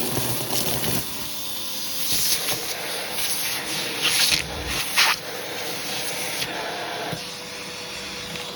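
Hoover vacuum cleaner running with a hand tool on the hose, its suction hissing as the tool is rubbed over a shag rug to pick up carpet powder. There are brief louder rushes of air about two, four and five seconds in.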